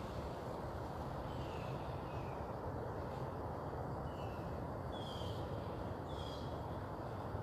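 A bird calling in short, slightly falling high notes, about five times at irregular intervals, over a steady low rumble of background noise.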